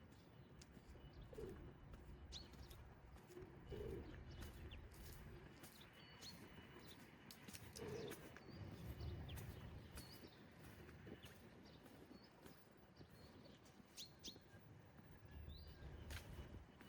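Faint morning birdsong: small birds chirping with short high calls, and a pigeon cooing low a few times, over a soft low rumble.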